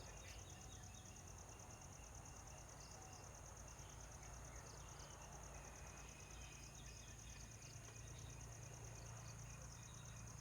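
Faint, high-pitched insect trill, pulsing rapidly and evenly without a break, over a low hum.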